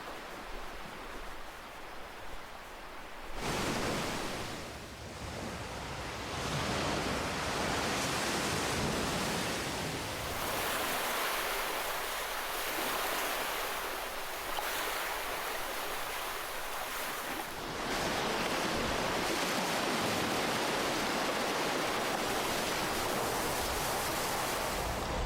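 Ocean waves breaking on a shore: a continuous wash of surf that rises sharply a few seconds in and swells again several times as further waves break.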